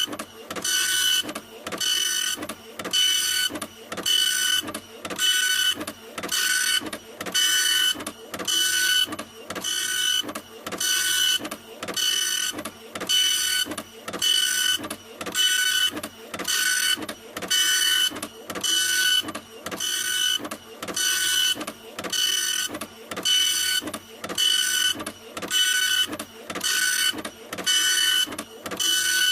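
Printer running in a steady mechanical rhythm, about three whirring passes every two seconds, each with a high steady whine.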